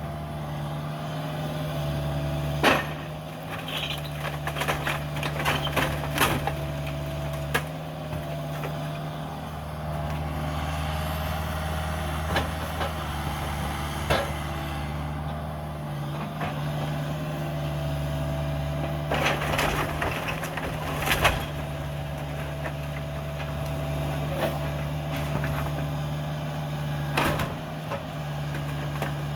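Caterpillar 305 mini excavator running steadily at working speed, with a whine that comes and goes as the hydraulics work. Sharp knocks and cracks of demolition debris come every few seconds.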